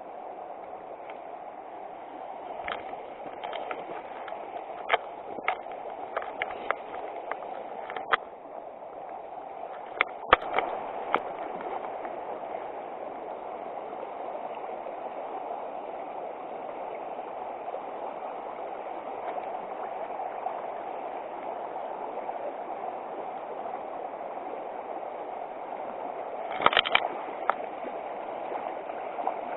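River water flowing, a steady rushing noise. Sharp clicks and knocks come scattered through the first dozen seconds, with a short cluster of louder ones near the end.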